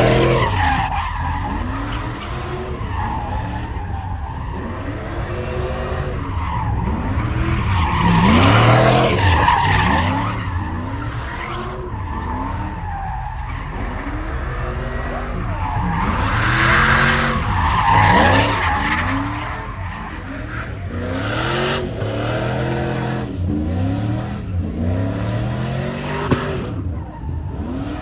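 Truck engines revving hard, rising and falling in pitch over and over, with tires squealing and skidding. The sound swells louder three times.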